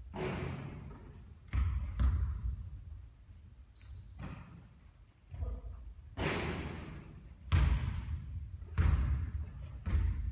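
A basketball bouncing on a court, thudding seven or eight times at an uneven pace, roughly once a second. A brief high squeak comes near the middle.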